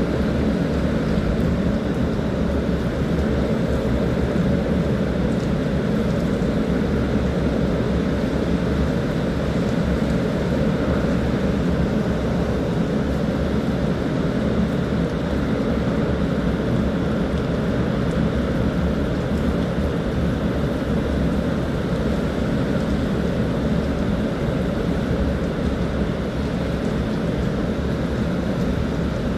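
Strong typhoon wind blowing steadily, buffeting the microphone with a constant low rumble.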